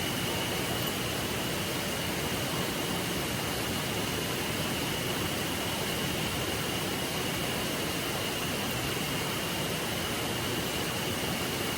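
A river flowing, a steady rushing of water, with a faint steady high-pitched tone over it.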